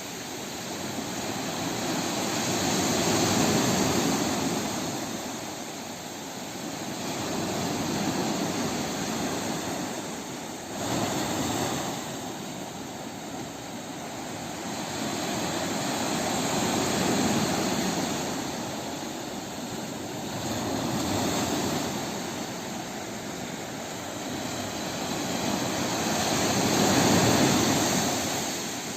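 Sea waves washing in on the shore, the surf swelling and fading every four to six seconds, one wave arriving more suddenly about eleven seconds in.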